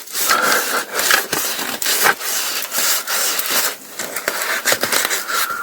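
Crinkling and rustling of paraglider ripstop nylon being handled, stretched and smoothed by hand, with many small crackles and irregular swells and a brief lull near the end.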